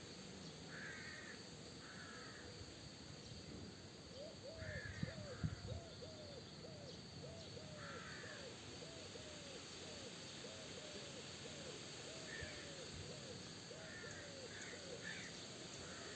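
Birds calling: a run of short, low, arched notes repeating about twice a second through most of the stretch, with higher chirping calls scattered throughout, over a steady faint hiss. A brief low rumble comes about five seconds in.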